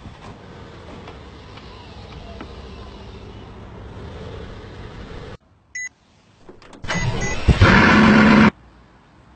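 A steady low mechanical hum that cuts off abruptly about five seconds in. A short electronic beep follows, then a sports car engine starts and revs loudly for about a second and a half before cutting off suddenly.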